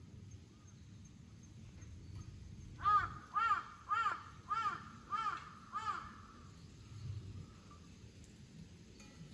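A crow cawing six times in a quick series, a little under two caws a second, each caw a short arched call.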